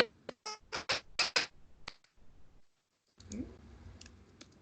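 A quick run of sharp clicks in the first second and a half, then a few more near the end. About halfway through, the sound cuts out entirely for about half a second.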